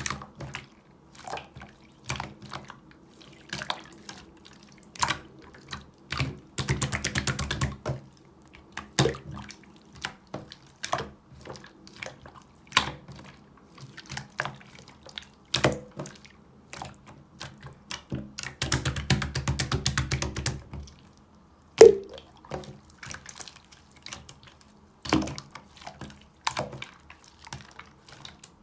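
Clear slime being squished and pulled by hand, making wet pops and clicks about once a second. Two stretches of fast crackling clicks come about 6 s in and again around 19 s, and a sharp pop stands out near 22 s.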